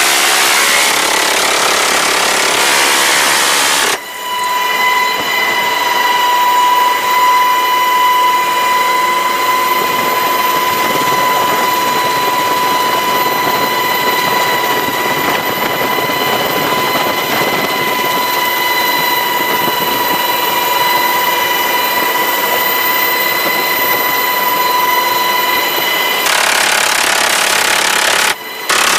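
Steady high-pitched turbine whine from the Sikorsky HH-60 Pave Hawk helicopter over continuous rushing noise. It is preceded by a stretch of harsher rushing noise, which cuts in abruptly at about four seconds and returns near the end.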